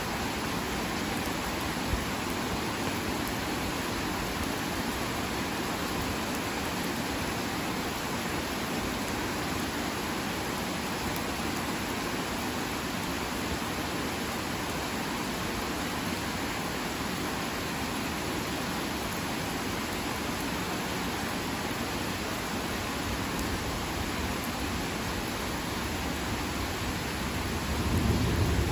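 Heavy rain falling in a steady, even hiss, with a low rumble of thunder swelling near the end.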